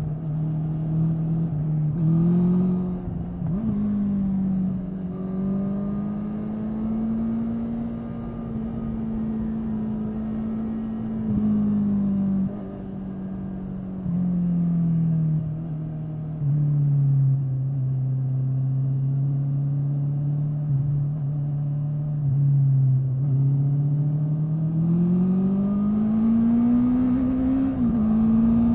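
Honda 650 inline-four motorcycle engine running under way. Its note rises a couple of seconds in and holds, drops to a lower steady drone from about twelve seconds, then climbs steadily again near the end as the rider opens the throttle.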